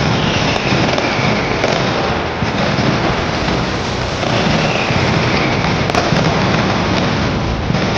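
Dense, unbroken crackle of firecrackers going off in rapid succession, loud throughout. A high falling whistle cuts through twice, about half a second in and again about four seconds in.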